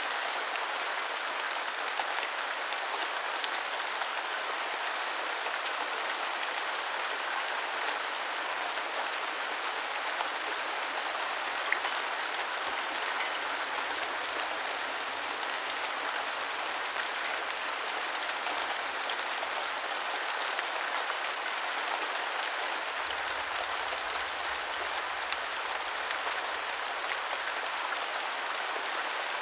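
Steady rain falling, an even hiss with fine scattered drop ticks. A faint low rumble comes in for a few seconds near the end.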